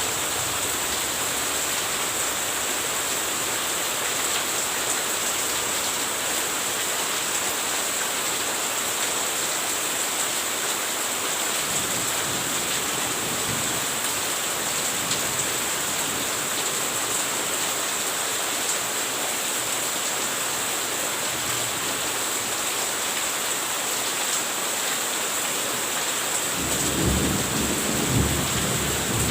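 Steady rain falling, an even hiss, with a low rumble of thunder coming in near the end.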